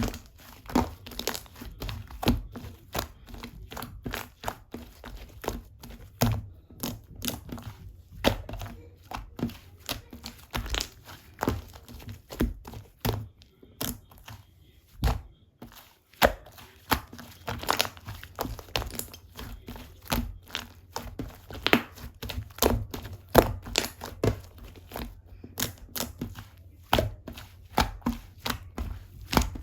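White cream slime being squeezed, pressed and folded by hand, making irregular sticky pops and crackling clicks, one to three a second.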